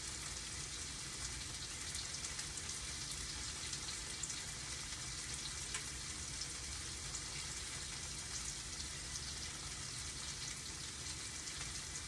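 Tofu frying in hot oil in a small pan: a steady sizzle with small crackling pops as the second side browns.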